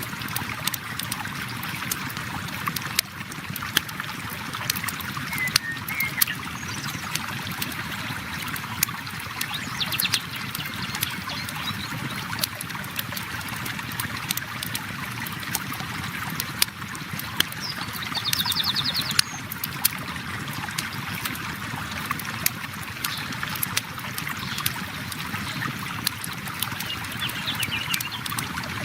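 River water flowing steadily with a campfire crackling, sharp pops scattered throughout. A few brief high bird chirps, the clearest about two thirds of the way in.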